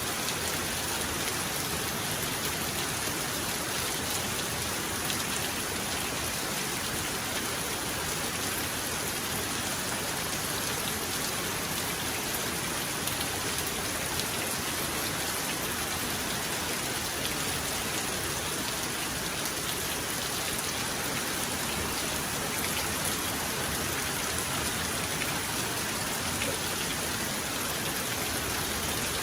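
Heavy rain falling steadily, a dense even hiss with fine patter of drops on surfaces, and no thunder clap.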